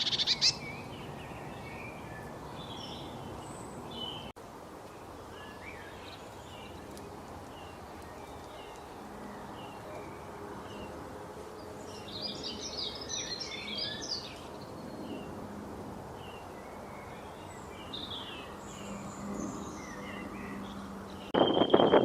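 Several wild birds of various species chirping and calling, short high notes scattered over steady background noise, with a burst of dense twittering about halfway through. A loud noise breaks in shortly before the end.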